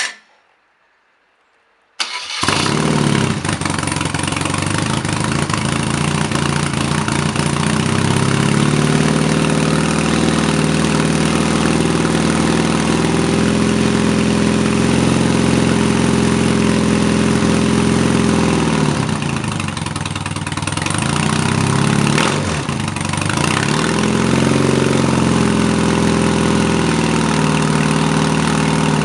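BMW R 80 air-cooled boxer twin cold-started on the choke: a short click, then about two seconds later the engine fires at once and runs at a steady idle. Twice past the middle the revs dip briefly and recover.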